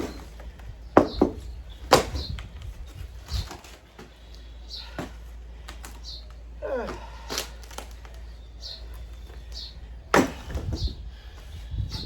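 Sharp, irregular blows of a hand tool chopping up water-damaged wooden furniture, one to a few seconds apart, with the hardest strikes near the start and about ten seconds in.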